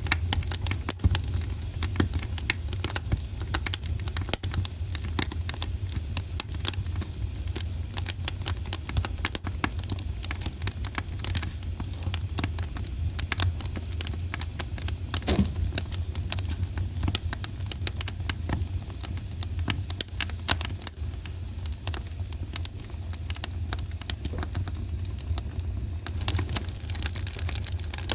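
Wood fire crackling in a fireplace: dense, irregular pops and snaps over a steady low rumble, with one louder pop about fifteen seconds in.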